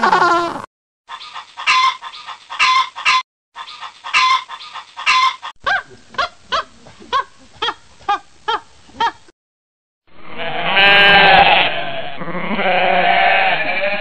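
King penguins trumpeting, cutting off within the first second. Then a long run of short, sharp animal calls, about two a second, with two brief breaks. From about ten seconds in, sheep bleating.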